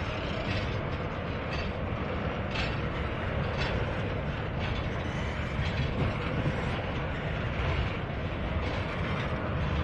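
Double-stack intermodal well cars rolling past at low speed: a steady rumble of steel wheels on rail, with a light click about once a second as the wheels cross the rail joints.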